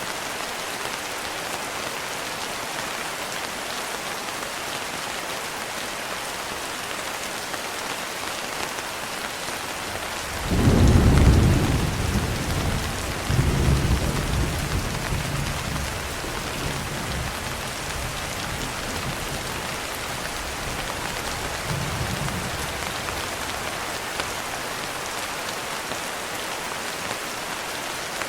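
Steady rain hiss with a roll of thunder: a sudden low rumble about ten seconds in, a second surge a couple of seconds later, then rumbling that fades away over several seconds while the rain carries on.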